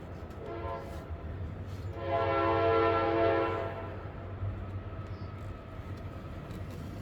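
A horn sounding in steady, chord-like blasts: a short one about half a second in, then a louder, longer blast about two seconds in, over a continuous low rumble.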